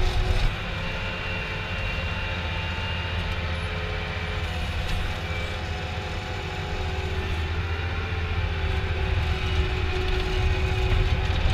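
Steady low engine-like rumble with faint steady humming tones above it, growing slightly louder toward the end.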